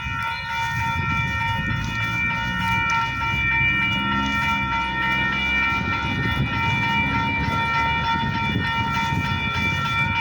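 Freight train running close by: a steady low rumble with a constant high-pitched whine over it.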